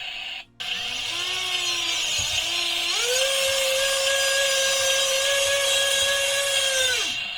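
Small electric motor whining. Its pitch rises, then steps up and holds steady for about four seconds before winding down and stopping near the end.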